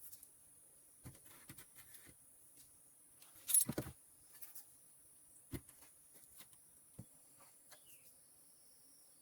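Scattered light knocks and rustles, with one louder rustling burst about three and a half seconds in, over a steady high hiss.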